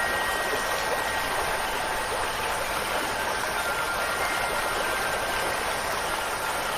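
Steady hiss of rain falling, with a few faint wind-chime tones ringing on quietly above it.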